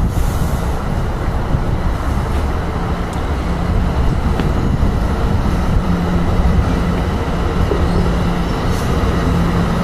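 NJ Transit Multilevel bilevel coach train rolling past along the rails with a steady rumble. A low hum grows stronger past the middle.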